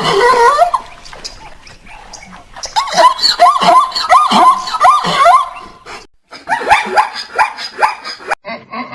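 An animal giving quick runs of short, high calls that bend up and down in pitch. They come in three bursts, with a brief break about six seconds in.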